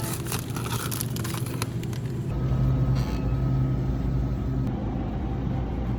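Steady low vehicle rumble, settling in about two seconds in after a few faint clicks.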